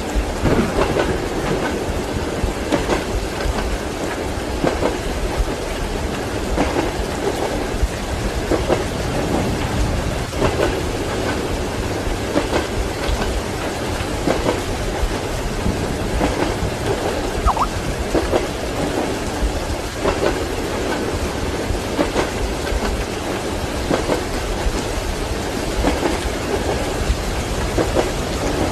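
Train wheels clacking over rail joints, about once every two seconds, heard from inside a sleeper compartment under a steady hiss of rain.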